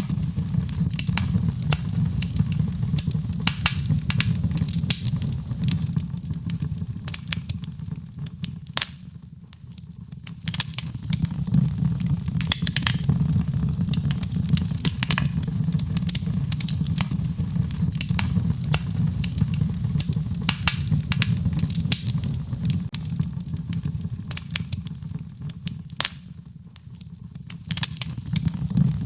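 Fireplace fire crackling and popping over a steady low rumble. The crackling thins out briefly twice, about ten seconds in and near the end.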